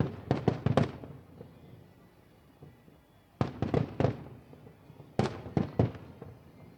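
Aerial fireworks shells bursting in three quick volleys of sharp bangs, each volley echoing away in a low rumble. The first volley comes right at the start, the second about three and a half seconds in and the third near the end.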